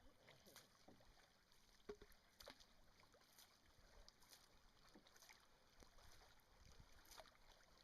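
Canoe paddles dipping into the river and pulling through the water, a faint splash about once a second with a steady stroke rhythm.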